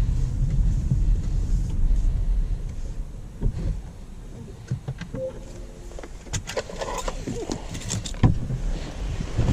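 Low road and tyre rumble in the cabin of a moving 2019 Jaguar I-Pace electric car, with no engine note, dying away about four seconds in. Scattered clicks and rattles follow, with a short beep about halfway and a sharp knock near the end.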